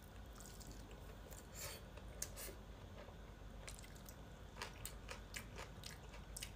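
A person chewing pork intestine close to the microphone: quiet, irregular wet mouth clicks and smacks, bunched in two spells.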